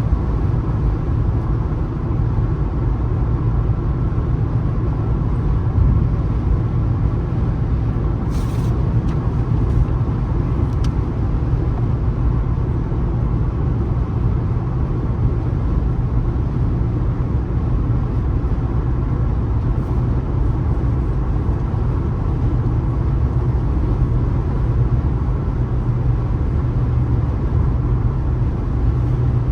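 Car driving at highway speed: a steady low rumble of tyre, road and engine noise.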